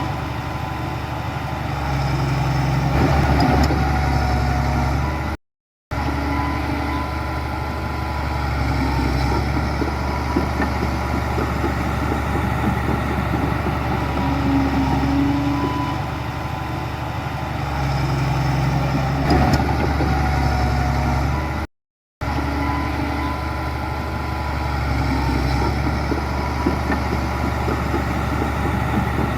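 Heavy diesel engine of earthmoving machinery running steadily, swelling briefly twice with a sharp clack. The sound is broken twice by a short gap of complete silence.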